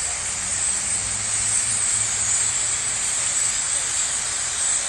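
Large flock of birds roosting in trees at dusk, their many calls merging into one dense, continuous chatter, a wall of sound of birds.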